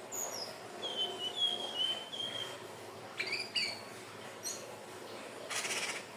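Indigo flycatcher (sikatan ninon) singing: a run of thin, high whistled notes that slide down and up in pitch, ending with a brief buzzy trill near the end.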